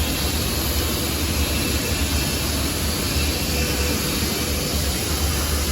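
Large 15 kW fiber laser cutting machine running: a steady, loud roar with a low hum under an even hiss.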